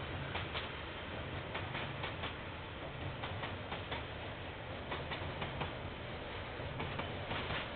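A train rolling slowly past, its wheels clicking irregularly over the rail joints over a steady low rumble, heard through a security camera's microphone.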